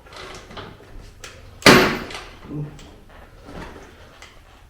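A kick-start stroke on a Honda CT70's swapped-in 212cc horizontal engine: one sharp, loud clunk about a second and a half in, with a smaller knock about a second later. The engine turns over against heavy compression without starting.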